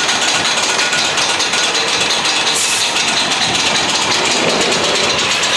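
Loud, steady mechanical din of fairground machinery running, a dense rattling engine-like noise.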